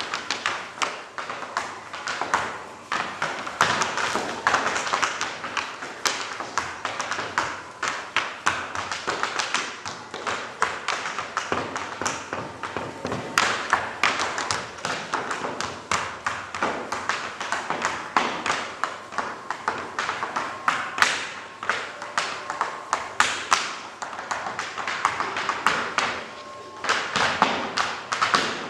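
Tap shoes striking a stage floor in fast, dense rhythmic runs of sharp clicks, with heavier stamps among them.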